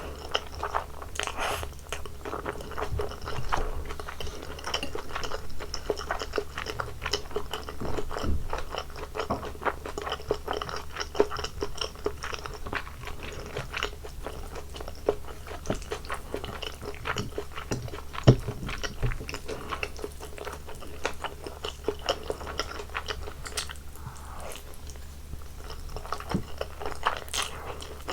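A person chewing and biting food close to a sensitive microphone, with a dense run of small wet mouth clicks and crunches and one sharper, louder crunch about eighteen seconds in.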